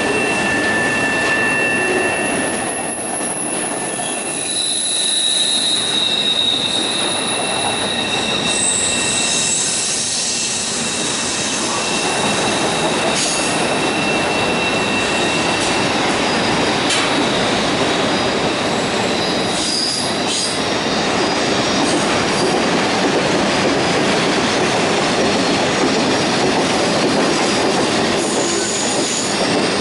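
Railroad cars rolling past on steel wheels in a steady rumble, with high thin wheel squeal in several tones that come and go, and occasional clicks from the rail joints.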